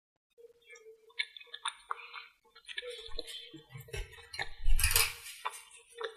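Small hard makeup items and containers being handled, with irregular clicks, taps and clinks. A louder rustling scrape comes about five seconds in.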